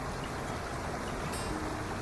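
Waterfall water rushing steadily, with soft acoustic guitar music underneath; a held guitar note comes in about one and a half seconds in.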